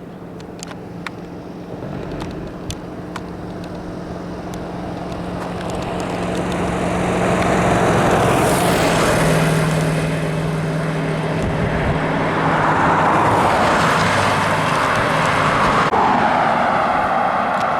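Heavy vehicle passing close by: its engine drone and tyre noise build up, the drone drops slightly in pitch as it goes by about nine seconds in, and a second swell of road noise follows around thirteen seconds.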